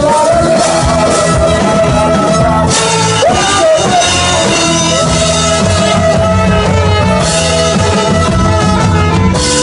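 A live band playing rock music: guitar, bass and drums, with a long held note that bends in pitch about three seconds in.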